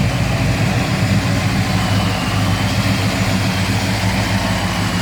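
Engine of a 1957 car running steadily at low idle as the car rolls slowly past; the sound is even throughout, with no revving.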